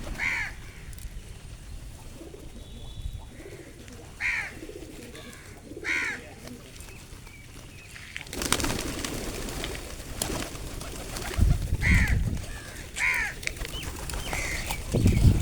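Pigeons cooing low at a feeding spot, with repeated short, higher bird calls over them. About eight seconds in a rushing noise comes up, with a couple of low thumps.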